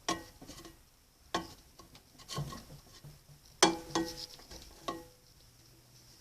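About six sharp clinks and knocks of hard kitchenware being handled, each with a brief ringing tone, spaced irregularly.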